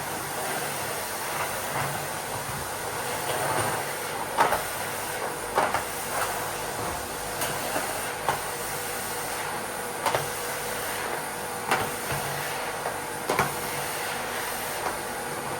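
Miele vacuum cleaner running steadily, with several sharp clicks and rattles as Lego pieces are sucked up.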